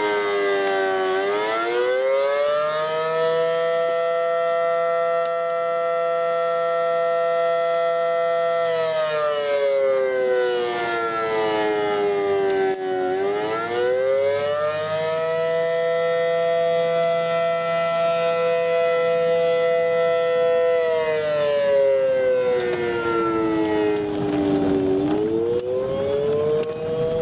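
Outdoor tornado warning siren wailing in slow cycles: the pitch rises, holds a steady tone for about six seconds, then falls, about every twelve seconds, and begins rising again near the end.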